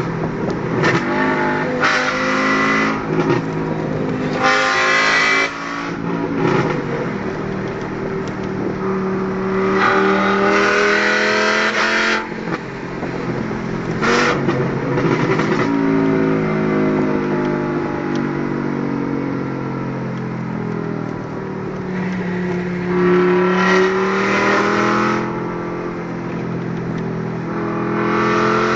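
Volkswagen Golf Mk4 2.3 V5 five-cylinder engine, very loud, revving up and dropping back several times. Its pitch rises to loud surges and falls away between them.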